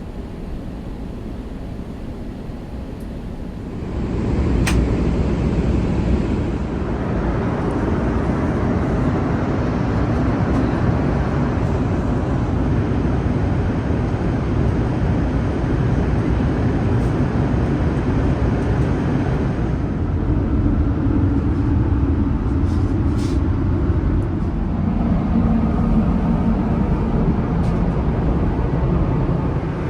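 Steady low rumble of a vehicle in motion, heard from inside; it grows louder about four seconds in and then holds.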